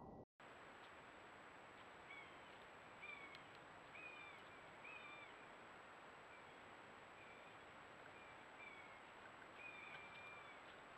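Faint short calls of a bird, about a dozen quick arched chirps spread over several seconds, over the steady hiss and faint high whine of a trail camera's microphone. The sound drops out briefly just after the start.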